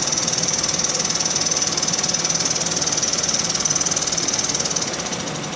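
A 1921 Empire B30 toy live steam engine running under steam: a rapid, steady mechanical beat with a high hiss of steam, getting a little quieter near the end.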